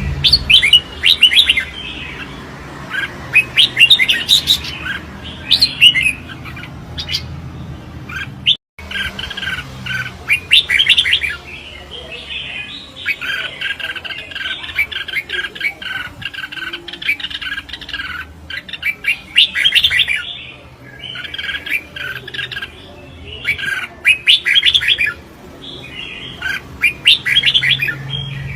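Red-whiskered bulbul singing its contest song: quick, bright warbling phrases repeated every second or two, with an instant of total silence about nine seconds in.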